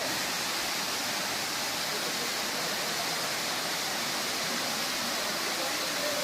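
Steady, even hiss of falling water, most likely rain.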